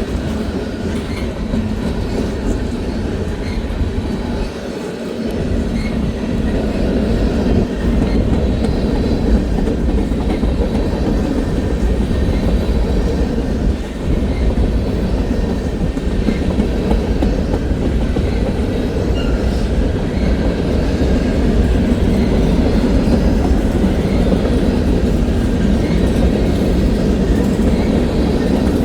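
A train rolling past, a steady heavy rumble of cars and wheels on the rails with faint repeated clicks, getting a little louder about six seconds in.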